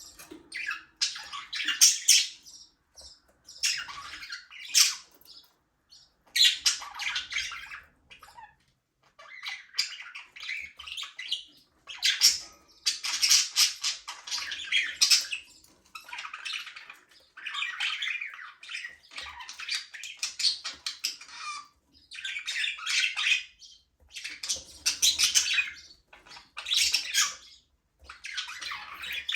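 A flock of budgerigars chirping and warbling: bursts of rapid, buzzy, high-pitched chatter one to two seconds long, with short pauses between them.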